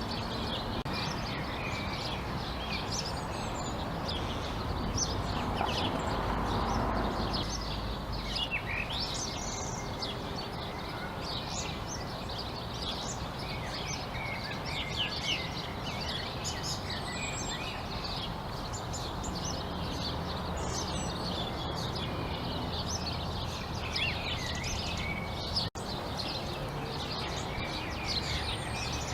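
Many small birds chirping and twittering at once in a dense chorus, over a steady low background rumble that swells briefly about six seconds in.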